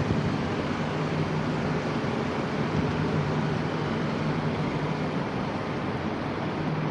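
Steady low hum with a rushing noise that stays level throughout, from an AVE high-speed train standing at the platform.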